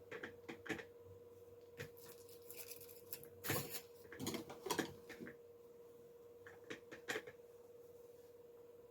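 Camcorder accessories and their packaging being handled: scattered clicks, knocks and rustles, busiest around the middle, over a faint steady hum.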